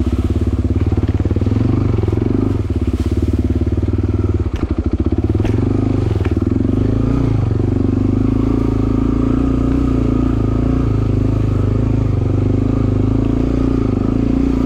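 Suzuki DR-Z250 dirt bike's single-cylinder four-stroke engine running at low, fairly steady revs as the bike is ridden slowly over rough, swampy ground. The engine note dips briefly about four and a half seconds in, and a few sharp knocks sound in the first half.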